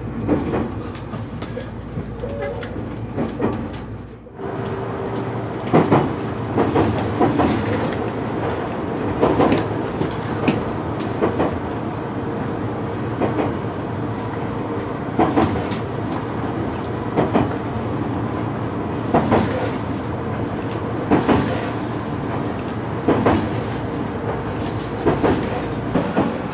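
Train running along jointed track, heard from inside the car: a steady rumble and hum with sharp wheel clacks over the rail joints every second or two, often in pairs. The sound drops away briefly about four seconds in.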